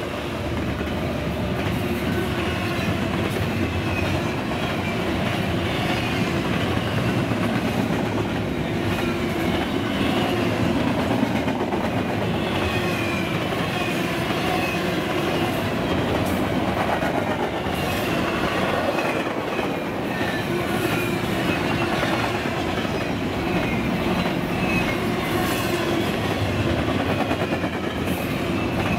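Double-stack container well cars of a freight train rolling past close by: a steady rumble and clatter of steel wheels on the rails.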